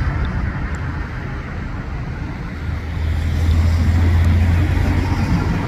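Road traffic: a steady rumble of vehicles, with a deeper engine drone growing louder about three seconds in and easing off near the end.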